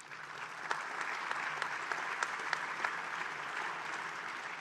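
Audience applauding, breaking out at once and carrying on steadily, easing slightly near the end.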